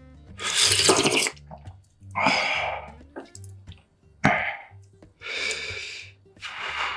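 Close-miked eating sounds: about five short noisy bursts of mouth and utensil noise, each under a second, one starting sharply about four seconds in, over a faint steady low hum.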